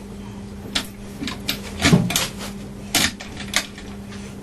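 Irregular metallic clunks and knocks, about seven, the loudest about two seconds in, as an Austin A-series engine and gearbox are wrestled into position in the car. A steady low hum runs underneath.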